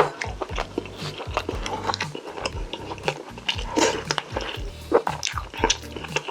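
Close-up chewing and eating sounds with many short sharp clicks, over background music with a steady low beat.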